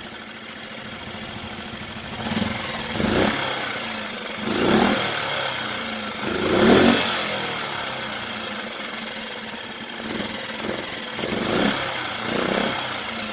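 Small Mercury 4–5 hp outboard engine running and being revved up and let fall back several times, the loudest rev about halfway through, returning to idle between revs. The revs test the newly adjusted idle, so that the engine drops back to a steady low idle.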